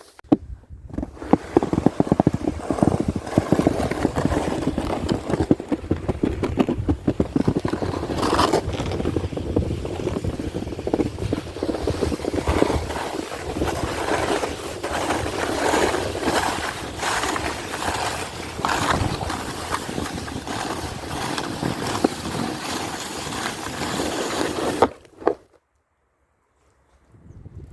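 A sled sliding over snow: a continuous rough scraping and crunching that stops abruptly about 25 seconds in.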